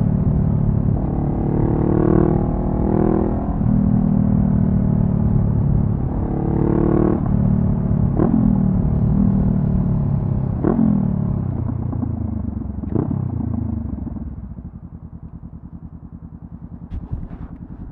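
2014 Honda CB500F parallel-twin engine through a Delkevic carbon slip-on exhaust, pulling under throttle, then giving four quick throttle blips as the bike slows. It settles to a low, steady idle for the last few seconds, with a few light clicks near the end.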